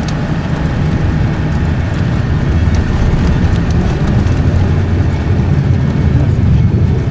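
Truck engine and road noise heard from inside the cab while driving, a steady low rumble.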